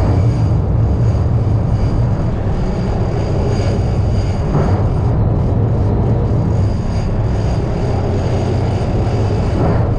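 Boat engine running steadily underway, a loud, unbroken low rumble.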